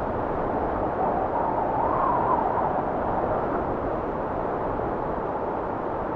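Blizzard wind blowing as a steady rushing noise, with a gust that rises slightly in pitch about two seconds in.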